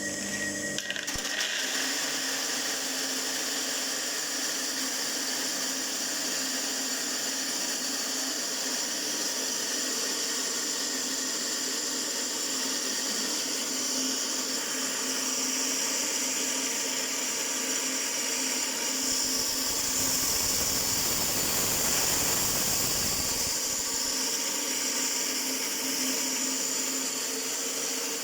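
Homemade shredder driven by a washing-machine motor, running steadily with a whirring hum. From about two-thirds of the way in, a louder, coarser noise joins for about five seconds, then drops away.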